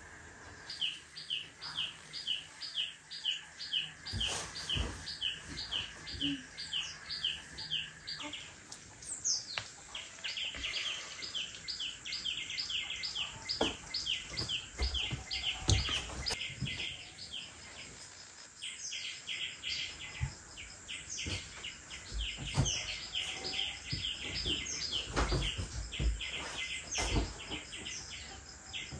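A bird calling outside, a quick chirp repeated about two to three times a second in long runs, with a short pause around 8 to 10 seconds in and again near 18. Scattered soft thumps and knocks run under it.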